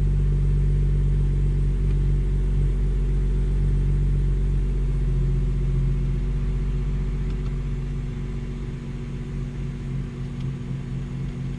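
BMW B58 3.0-litre turbocharged inline-six idling steadily shortly after a cold start on fresh oil. The engine is not yet warm enough for the electronic oil-level measurement. The hum eases slightly in level in the later part.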